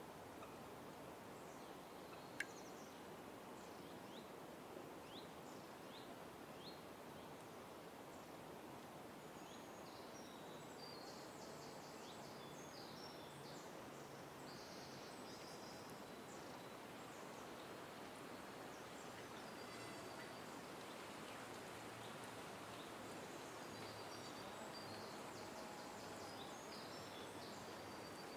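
Scattered small bird chirps and short trills over a steady background noise, faint overall. There is one sharp click a little over two seconds in.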